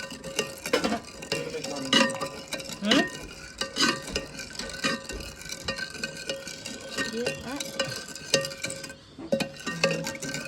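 A cooking utensil stirring food in a pan, clinking and scraping against it about once a second, over a frying sizzle.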